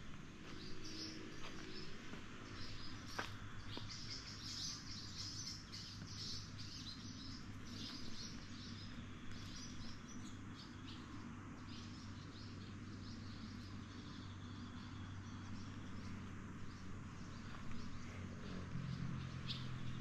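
Small birds chirping and twittering in quick short calls, busiest in the first half, over a low steady hum.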